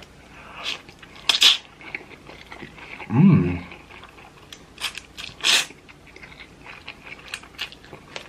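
Close-miked eating of thick, chewy ramen noodles: sharp wet slurps and mouth clicks with chewing in between, and one short voiced sound about three seconds in.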